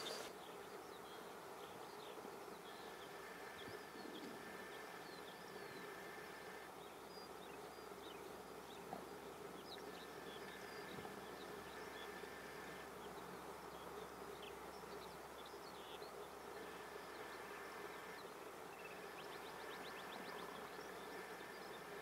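Faint songbird chirps and short song phrases scattered throughout over a low hiss. A thin steady buzzing tone comes and goes in stretches of a few seconds.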